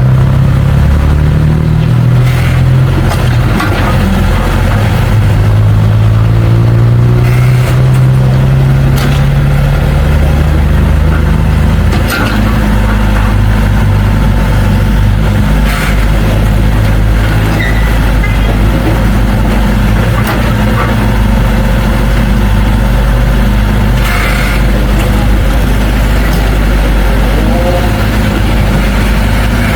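Heavy diesel engine of a bulldozer working at close range. Its pitch shifts up and down with the load for the first dozen seconds, then it runs steady, with a few sharp knocks along the way.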